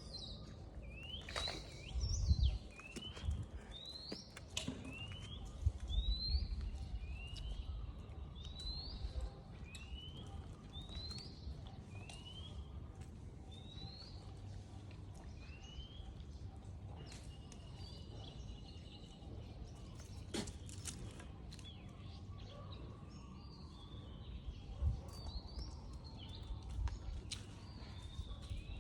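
A bird chirping over and over, a short rising chirp about once a second, fading out about halfway through. A few low thumps come near the start.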